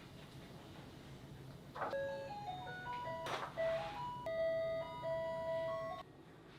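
A short electronic jingle of plain beeping notes, like an appliance's melody, starts about two seconds in over a faint sizzle and runs for about four seconds, with a couple of light knocks, then cuts off suddenly.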